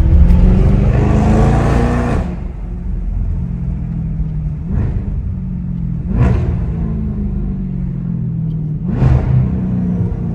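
Straight-piped Audi S7 exhaust pulling hard, its note rising for about two seconds, then dropping suddenly to a steady lower drone. Three short louder surges follow later on.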